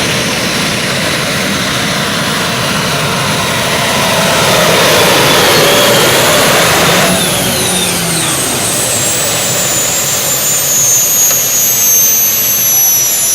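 Modified pulling tractor's aircraft engine running loud, swelling about four seconds in. In the second half, high whines glide slowly down in pitch.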